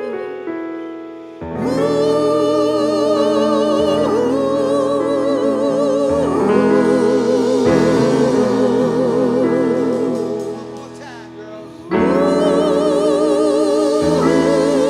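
Band music with several voices singing long held harmony notes with vibrato, in chords that fade out about a second in and again around eleven seconds before coming back in.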